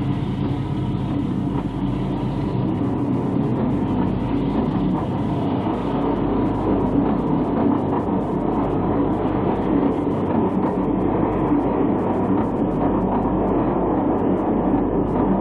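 A train running, a steady rumbling noise that holds even throughout, without distinct wheel beats.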